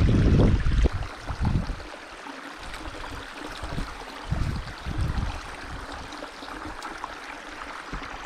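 Creek water running steadily, with low rumbles on the microphone, loudest for about the first second and returning briefly a few times.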